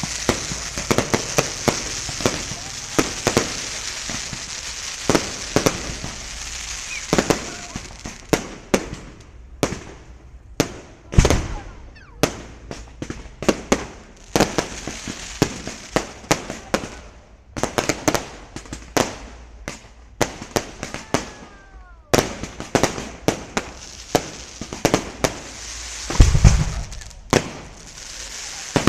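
Fireworks display going off: a rapid, uneven run of bangs from bursting shells over continuous crackling. Two of the bangs, about 11 and 26 seconds in, are louder than the rest.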